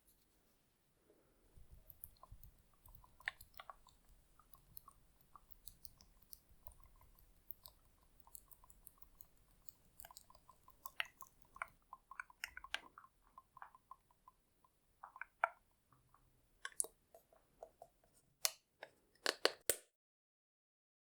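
Close-miked ASMR skincare sounds: soft, sticky, crackling clicks and taps of products and hands handled right at the microphone, growing denser, with a few sharp loud clicks near the end before a sudden cut to silence.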